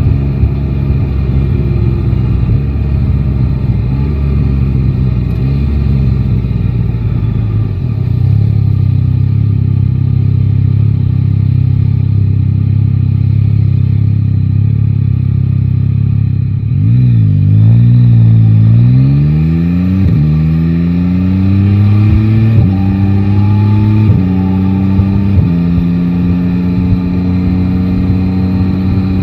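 Yamaha Tracer 9 GT's inline-three engine running steadily at low revs, then pulling away and accelerating hard through the gears from about 17 seconds in. Its pitch rises in sweeps, broken by three quick upshifts near the end.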